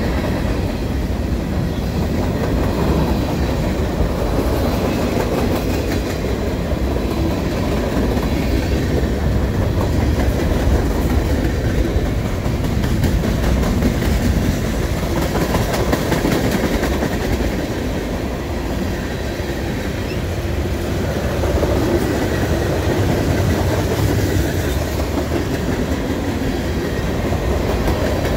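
Loaded freight train cars (covered hoppers and tank cars) rolling past close by: a steady rumble of steel wheels on the rails with a dense run of clicks and clacks from the wheels.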